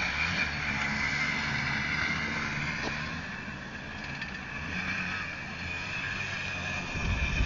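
Dirt-bike engines running and revving on a race track, a steady mixed drone of several machines with pitch shifting up and down. A louder low rumble begins near the end.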